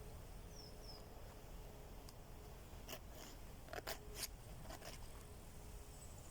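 Quiet outdoor ambience with a low rumble, two faint high chirps about half a second in, and a handful of sharp clicks and snaps between about three and five seconds in.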